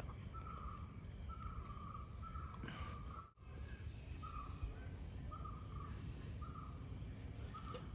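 A bird giving a string of short, repeated calls, with a steady high-pitched insect drone behind it that drops out briefly and comes back. Everything cuts out for a moment about three seconds in.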